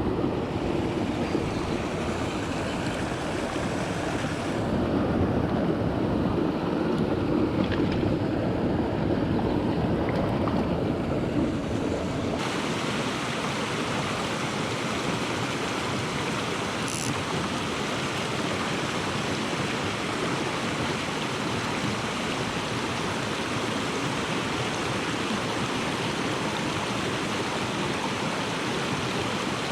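Mountain stream rushing, a steady wash of flowing water. For the first twelve seconds or so it is heavier and lower, with wind on the microphone. Then the sound changes abruptly to a brighter, more even rush of water.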